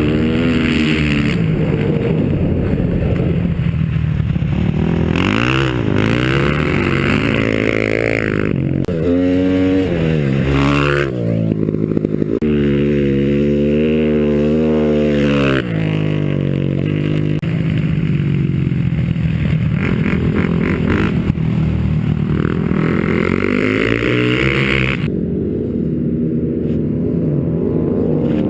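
Motorcycle engine revving hard, its pitch climbing and dropping again and again as it accelerates, shifts and backs off, with a long steady stretch near the middle.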